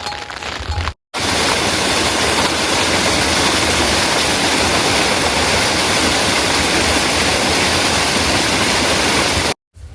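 A steady, even rush of flowing water that cuts in abruptly about a second in and cuts off abruptly near the end.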